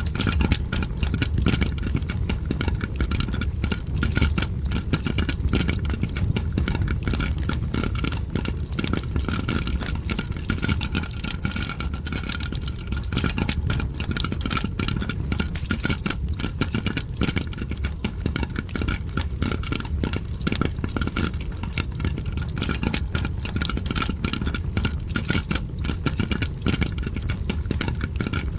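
Dense, continuous popping and crackling, popcorn popping layered with a crackling fire, over a steady low rumble.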